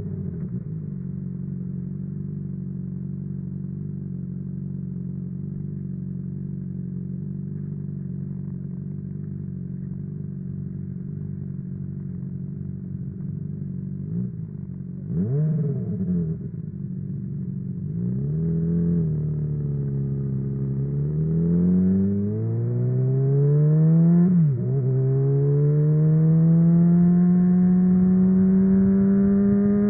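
Honda CBR600RR inline-four with a MIVV Suono aftermarket exhaust idling steadily, then blipped a few times with the pitch rising and falling. It then pulls away with a long rising note, broken once by a short drop at an upshift.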